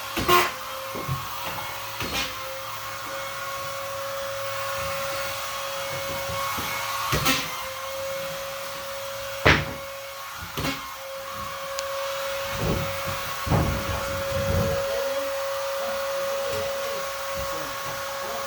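Vacuum cleaner running with a steady whine, with several knocks and bumps along the way; the loudest knock comes about nine and a half seconds in.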